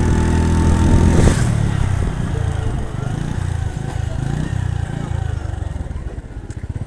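Motorcycle engine running on the move, loud and steady at first, then dropping to a quieter, lower, less even note about a second in.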